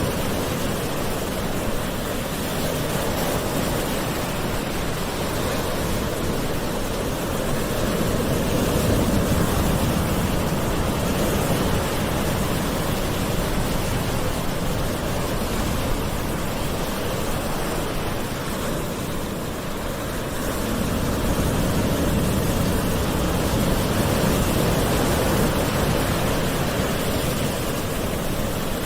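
Gentle ocean waves: a steady rushing wash that slowly swells and ebbs, dipping briefly about two-thirds of the way through.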